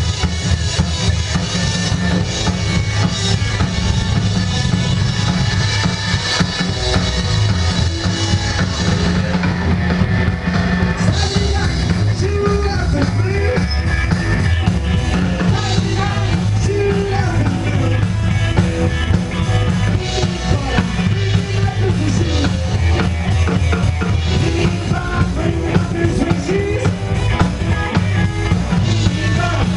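Live rockabilly band playing: drum kit, bass and guitars, with some singing.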